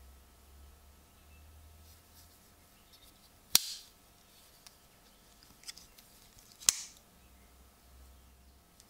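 Two sharp clicks about three seconds apart, each followed by a brief scraping rasp.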